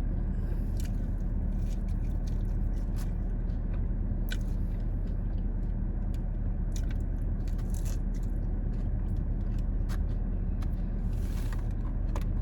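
Close-up mouth sounds of a person biting and chewing fast food, with many small scattered clicks, over a steady low hum.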